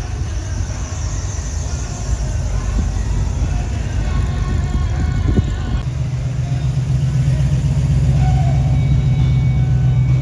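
A car engine running with a deep, low, pulsing rumble that grows louder and steadier about six seconds in.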